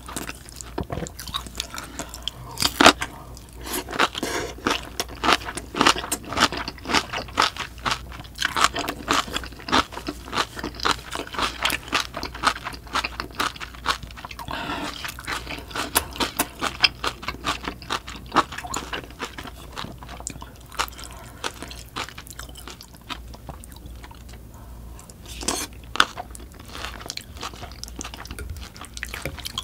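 Close-miked chewing of napa cabbage kimchi: a quick, steady run of wet crunches that eases off about two-thirds of the way through.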